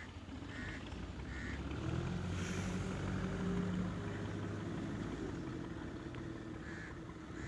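Tractor diesel engine running steadily. It grows louder about two seconds in, then eases off again, as if passing close by and moving away.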